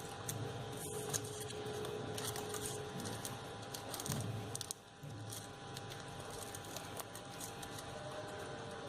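Crepe paper and floral tape rustling and crinkling under the hands as leaves are wound onto a wire stem, a run of short, irregular scratchy crackles.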